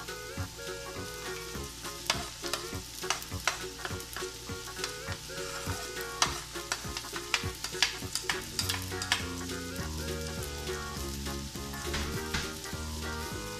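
Diced vegetables sizzling in hot oil in a stainless steel pan as they are tipped in and scraped off a plastic board, with many sharp clicks and scrapes of the plastic against the pan.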